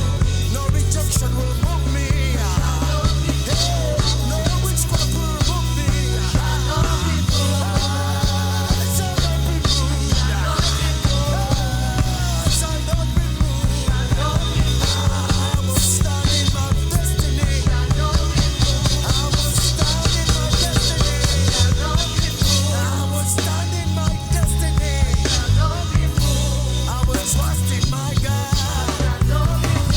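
Live worship band playing a driving instrumental passage: heavy bass notes shifting in steps and drum kit cymbals and hits keeping a steady beat.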